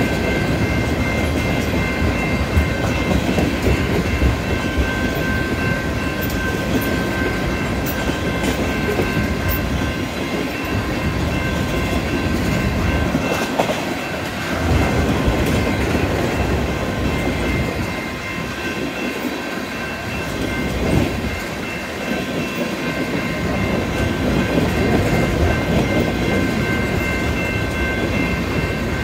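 Railroad tank cars of a long freight train rolling past, wheels clattering rhythmically over the rail joints, with steady high-pitched tones running over the top.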